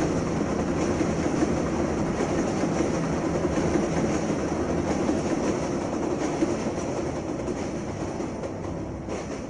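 A train passing: a steady loud rumble with rapid clatter, easing off near the end.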